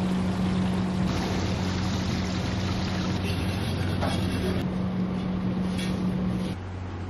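A steady low hum over a broad rushing noise, like a motor or burner running, with abrupt changes about a second in and near the end.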